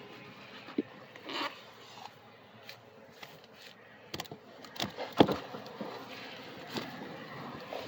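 Wooden beehive boxes and frames scraping and knocking as the hive is worked, a sharp knock about five seconds in the loudest, over a faint steady hum of honey bees.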